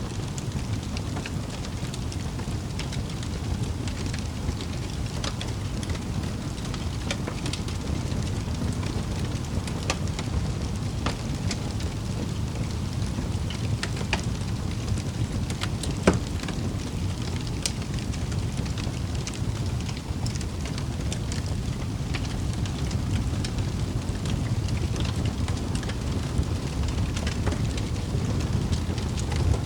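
Wood fire burning in a fireplace: a steady low rush of flames with scattered sharp crackles and pops, one loud pop about halfway through.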